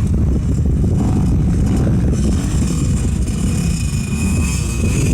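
KTM motocross bike's engine running steadily under a dense low rumble.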